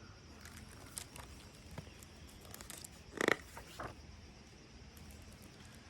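Quiet handling of a picture book: paper rustling and small clicks, with one louder short swish about three seconds in.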